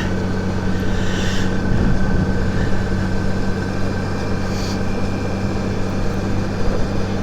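Honda Gold Wing GL1800 trike's flat-six engine running steadily on the move, a low hum that holds one pitch, with road and wind noise.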